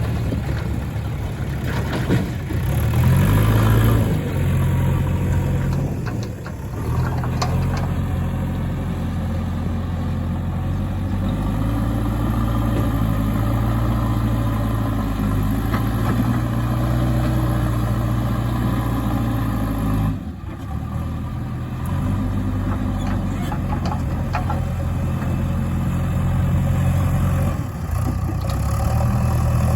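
JCB 3DX backhoe loader's diesel engine working steadily, its note rising and falling with the load as it digs and loads, with a few brief dips in engine speed.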